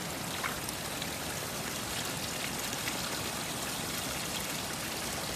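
Steady hiss of water, with one faint tick about half a second in.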